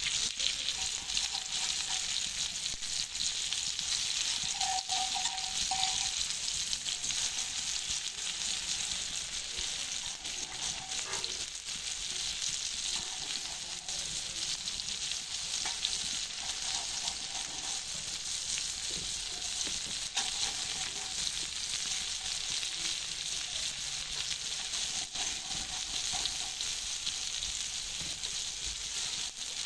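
Tomato slices frying in oil on a large flat iron griddle, sizzling steadily, with a metal spoon now and then scraping and tapping on the griddle as they are stirred.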